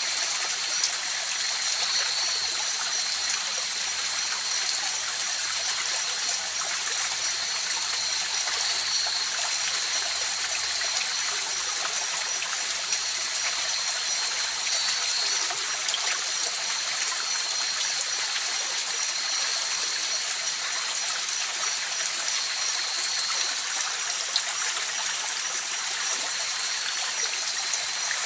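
Mountain river flowing steadily over rocks, an even rushing and trickling of water. Over it runs a continuous high-pitched pulsing trill of night insects.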